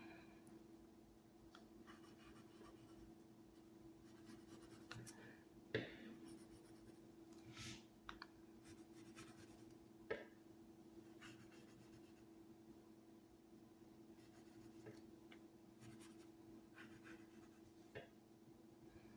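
Near silence: room tone with a steady low hum, faint scratching and a few soft clicks.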